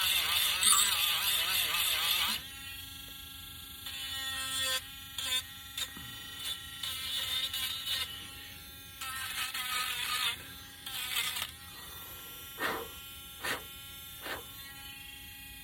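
A small electric sanding tool whining. It is loud and wavers in pitch for the first two seconds or so. Then it runs more quietly, with irregular short bursts of louder scratching as it works against the wood.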